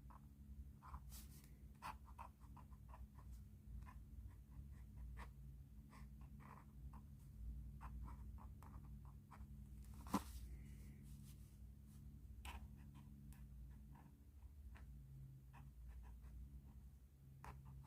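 Pen tip scratching across paper in quick strokes, with small clicks and one sharper tap about ten seconds in.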